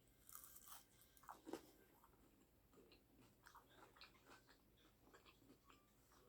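Faint chewing and mouth sounds of a person eating close to the microphone, with soft smacks and clicks, a few of them louder in the first second and a half.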